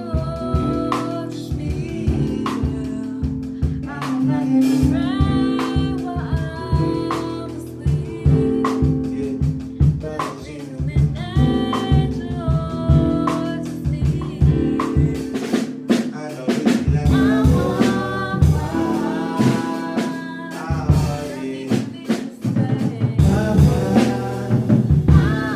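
Live band music: keyboard chords and a drum kit keeping a steady beat with snare and kick, under a sung melodic line.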